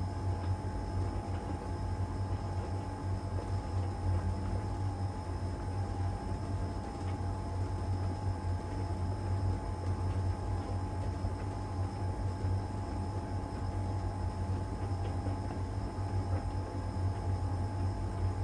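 LG heat pump tumble dryer running in its drying phase, drum turning one way: a steady low hum with a steady whine above it.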